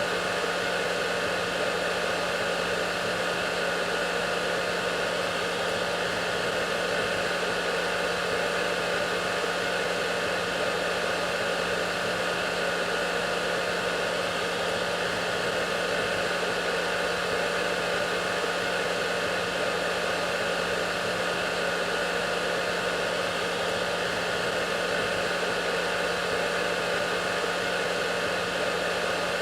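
Hair dryer running steadily: an even, unchanging rushing hiss with a low motor hum underneath.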